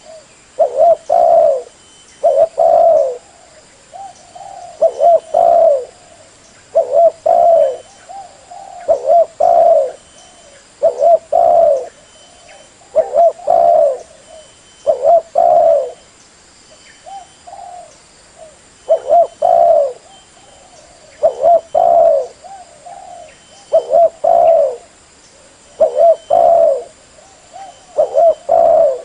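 Spotted dove cooing over and over in short phrases of a few low coos, about one phrase every two seconds.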